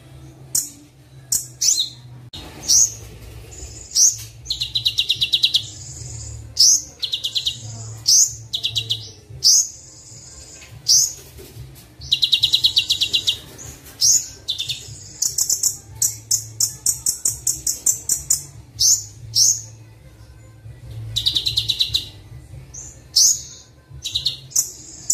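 Recorded song of a kolibri wulung sunbird: rapid high chirps and short call notes, broken by several buzzy, fast trills of a second or two, over a steady low hum. It is played as a masteran, a tutoring and lure recording full of imitated phrases ('isian').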